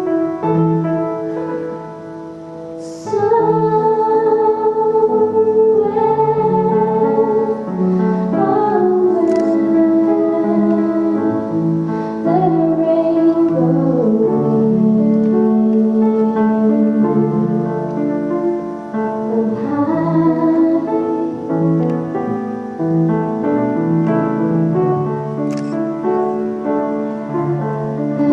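A woman singing a song with keyboard accompaniment, holding long notes with vibrato. The voice drops out briefly about two seconds in and comes back about a second later.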